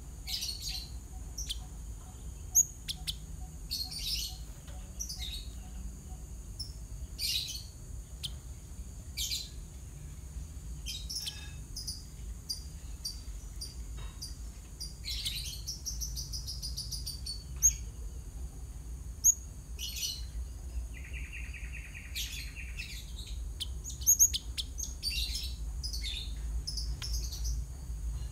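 Java sparrow calling: a string of short, high chirps and ticks at irregular intervals, with a quick run of falling notes near the middle and a buzzy trill about three-quarters of the way through, over a steady low hum.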